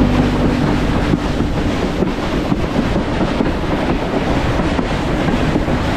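Western Maryland Scenic Railroad train running, a steady rumble with faint irregular knocks and wind on the microphone. A held tone with several pitches stops about half a second in.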